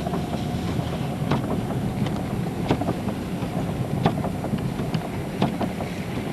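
Minivan cabin noise while driving slowly on a snowy road: a steady low rumble of engine and tyres, with a sharp tick about every second and a half.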